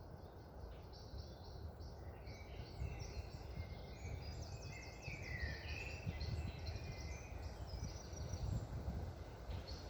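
Wild birds chirping and trilling over a steady low rush of wind, with one louder downward-sliding call around the middle.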